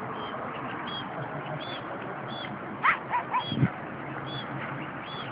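Birds calling over steady outdoor background noise: a short high peep repeating about every three quarters of a second, and a brief cluster of louder calls about three seconds in, ending in a low grunt.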